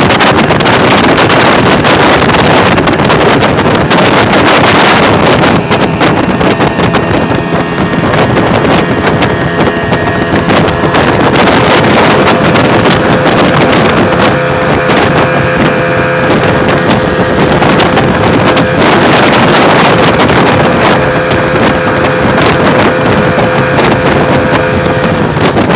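Motorboat with a Yamaha 200-horsepower engine running at speed, its steady engine whine under heavy wind buffeting on the microphone. The whine fades briefly about two-thirds of the way through, then returns.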